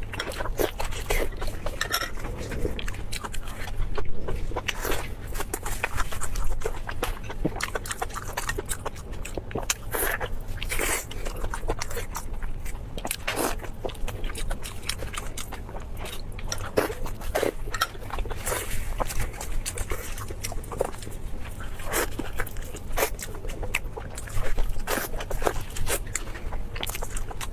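Food being bitten and chewed: a steady run of short, crisp crunches and wet chewing clicks.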